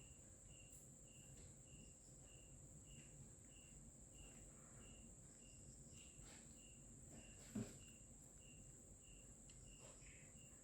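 Near silence with faint insect chirping, evenly spaced about twice a second, and one soft knock about two-thirds of the way through.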